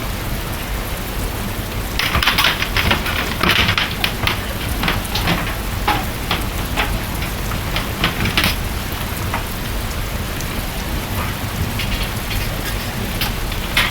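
Steady heavy rain with a low rumble underneath. Through the middle come many sharp taps and clicks.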